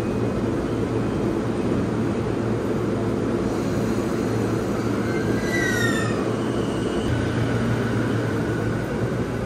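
JR Nambu Line E233-series electric commuter train pulling out of the platform, its cars running past close by, with a brief falling squeal about halfway through.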